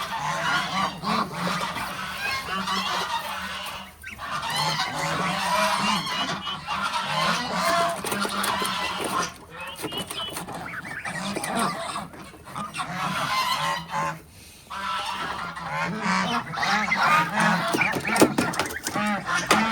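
A flock of geese honking, with many calls overlapping almost continuously and a few brief lulls.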